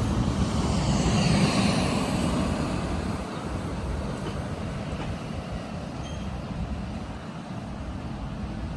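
A regional passenger train passing and moving away: its rumble is loudest at the start and fades steadily, with a high whine falling in pitch in the first few seconds.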